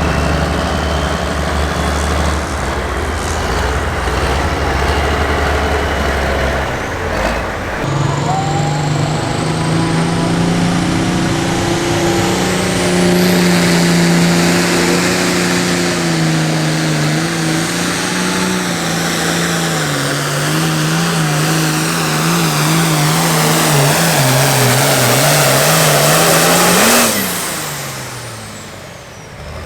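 Hot farm tractor's turbocharged diesel engine making a pull. A low drone gives way about seven seconds in to full throttle with a high whine; the engine then pulls hard for about twenty seconds, its pitch wavering under load, and near the end it is shut off and winds down.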